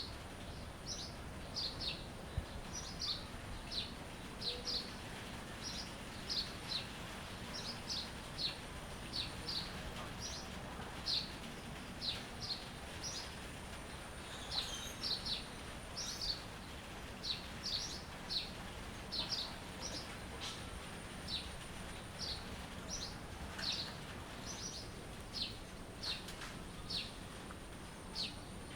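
A bird chirping over and over: short, high chirps about one or two a second, over a steady background hiss.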